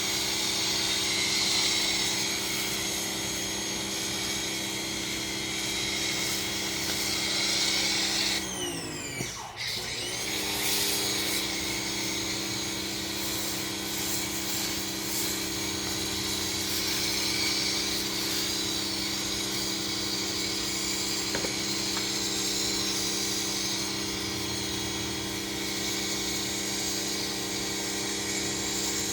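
Ryobi 2000 psi electric pressure washer running, with a steady motor whine and a hiss of spray. About eight seconds in the motor winds down and stops briefly, then spins back up, as when the spray trigger is let go and squeezed again.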